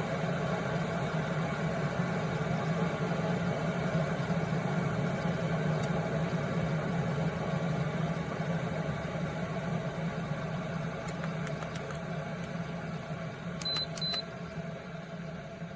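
Glass electric kettle heating water to the boil: a steady rumble that slowly fades over the second half, then two short high beeps about fourteen seconds in, typical of the kettle signalling that it has reached its set temperature.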